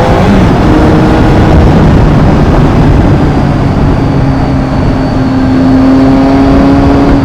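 Triumph motorcycle engine running under way in traffic over a loud, steady rush of road and wind noise. The engine note shifts pitch a few times, then holds steady.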